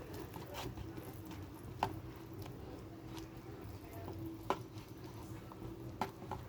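Instant ramen noodles being stirred with a fork in their cup: soft wet squishing and a few faint clicks of the fork against the cup, over a low steady hum.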